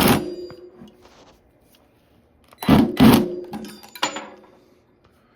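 Cordless drill with a socket extension driving a bolt tight in short trigger pulls: one burst at the start, then three more in quick succession about three seconds in.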